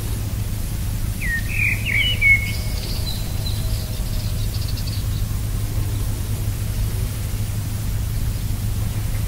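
Small bird calling outdoors: a quick run of chirps about a second and a half in, then fainter, higher chirps. Underneath is a steady low hum.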